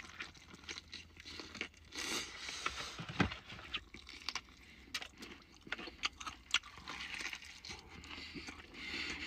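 Close chewing of a gravy-covered fried chicken thigh: scattered crunches and small wet mouth clicks, one louder crunch about three seconds in.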